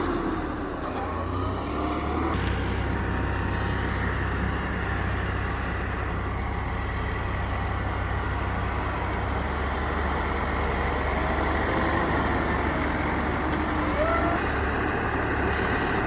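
Tractor engines running steadily as the tractors pack a pile, with a few brief rises and falls in pitch.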